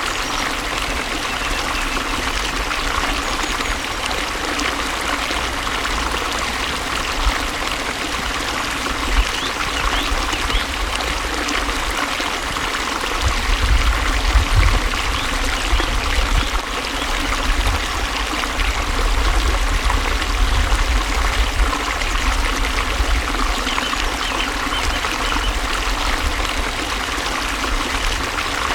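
Water flowing steadily in a stream, a continuous trickling rush with a deeper low rumble that swells about halfway through.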